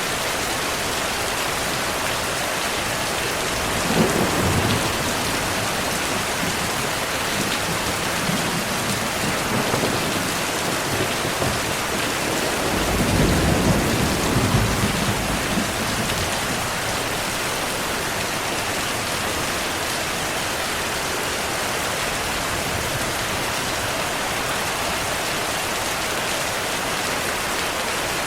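Heavy rain falling steadily, with thunder rumbling twice: a short clap about four seconds in and a longer, louder rumble about halfway through.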